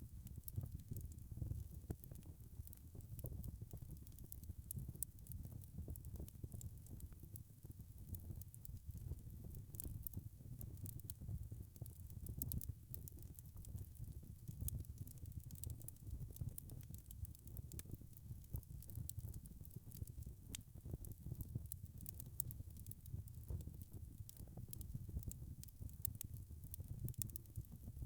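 Wood fire crackling: a steady low rumble of burning logs with frequent small, sharp pops and snaps scattered throughout.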